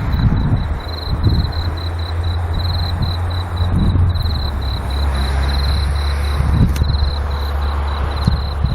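Steady low drone of a diesel train engine running, with insects chirping in short repeated high pulses over it.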